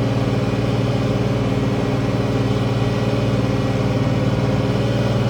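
International Harvester 1566 tractor's six-cylinder turbo diesel running steadily at a constant speed.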